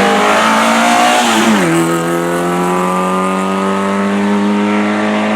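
Race car engine at high revs during a hillclimb run, upshifting about one and a half seconds in with a quick drop in pitch, then pulling hard again with the pitch slowly rising.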